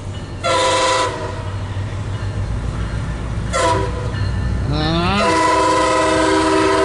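MARC commuter train's locomotive air horn sounding several tones at once: two short blasts, then a long blast from about five seconds in, over the low rumble of the approaching train.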